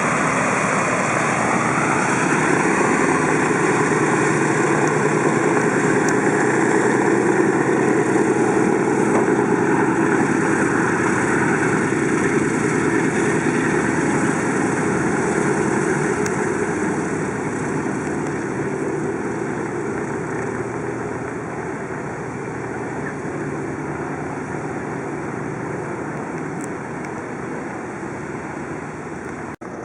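Piston warbird engine and propeller running loud. Its pitch rises briefly about two seconds in and then holds steady, and the sound slowly fades over the second half.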